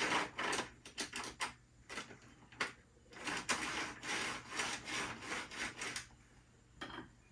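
Irregular clicks, rubbing and scraping as a disassembled HO-scale model locomotive is handled.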